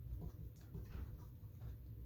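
A 52-inch Aircool Hugger ceiling fan coasting down just after being switched off: a faint, uneven low rumble with a few light ticks.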